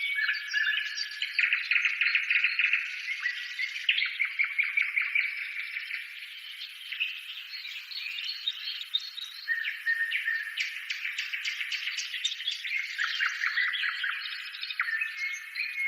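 Several songbirds chirping and trilling at once in quick, overlapping phrases, a continuous birdsong chorus.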